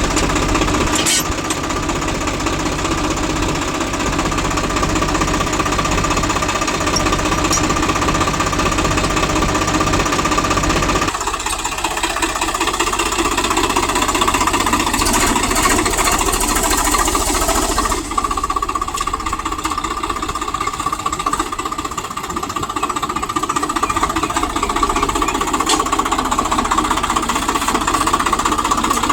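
Heavy diesel machinery running with a fast knocking clatter, as of a JCB loader or tractor engine working. About a third of the way in the deep rumble drops away and the sound changes, and it shifts again a little past halfway.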